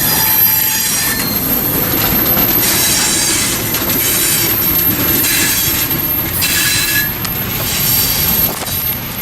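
Train rolling by over a steady rumble, its wheels squealing in high, shrill patches that come and go.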